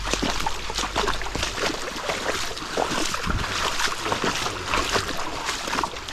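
Water sloshing and splashing with many small irregular clicks and rustles, as of moving through shallow floodwater, with some wind rumble on the microphone during the first second and a half.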